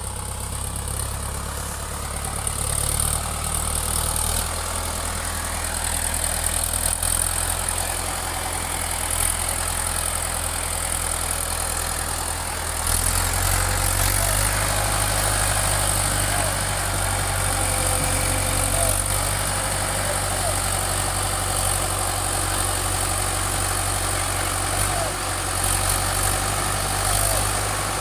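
Tractor engine running steadily at a low pitch, growing somewhat louder about halfway through.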